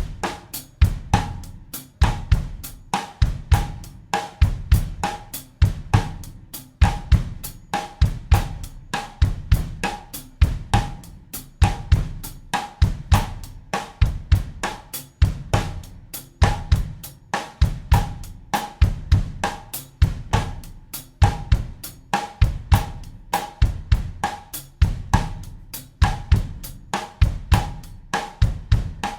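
Acoustic drum kit playing a steady, repeating bossa nova groove in 4/4 at 100 beats per minute, with bass drum, snare and hi-hat/cymbal strokes in an even pattern.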